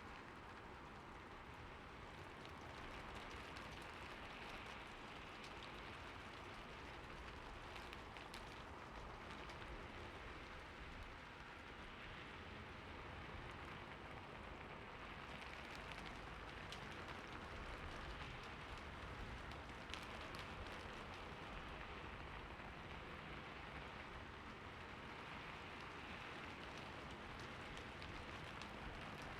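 Quiet, steady rain falling, with scattered individual drops ticking through the even hiss.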